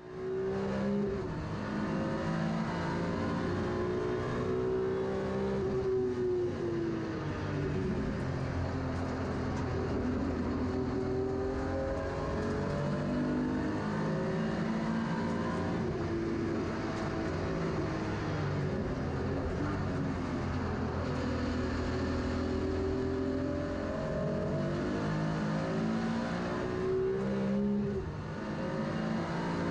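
BMW E36 M3 race car's S54B32 3.2-litre naturally aspirated straight-six at full load, heard from inside the stripped cabin, its pitch climbing and falling again and again as the car accelerates, changes gear and slows for corners.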